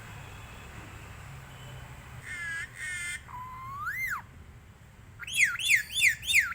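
Indian ringneck parrot mimicking a crow's "kaa, kaa" caw twice, then giving a whistle that rises and falls. Near the end comes a rapid run of about six shrill screeches, each sweeping downward.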